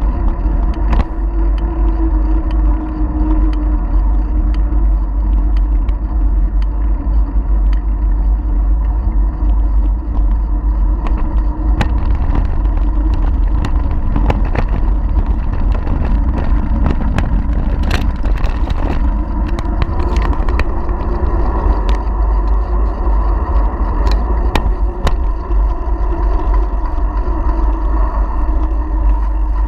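Constant wind rumble over a bike-mounted action camera's microphone, with sharp clicks and rattles scattered through it as the bicycle rides over bumps.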